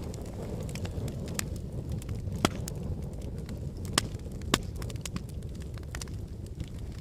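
Volcanic eruption: a steady low rumble with scattered sharp cracks and snaps, a few louder ones in the middle.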